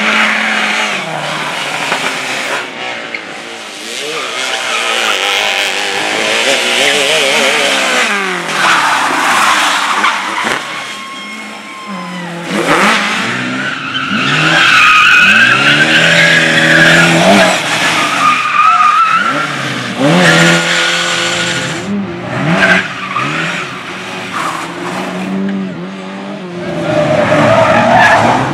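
Cars running a tight slalom course: engines revving up and falling back again and again through gear changes, with tyres squealing through the turns.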